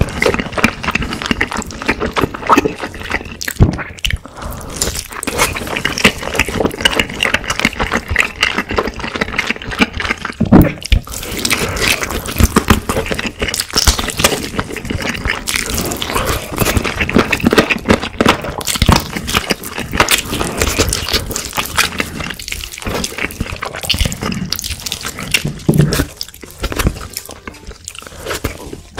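Close-miked eating: biting into and chewing sauce-glazed fried chicken, with many small clicks, crackles and wet mouth sounds.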